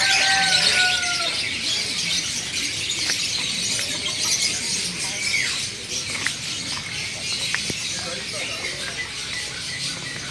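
Many small caged birds chirping and twittering together in a dense, high chorus that gradually fades. A short pitched call falls slightly in the first second.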